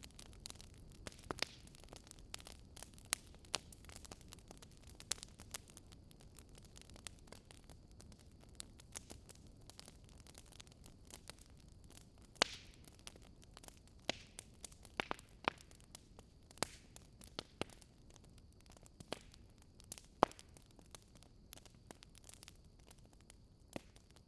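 Quiet campfire crackle: irregular sharp pops and snaps of burning wood over a soft, steady low hiss.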